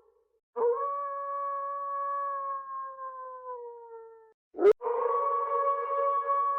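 Wolf howling in a horror sound effect: one long held howl that sags slightly in pitch as it fades, then, after a sharp click about four and a half seconds in, a second howl at a steady pitch.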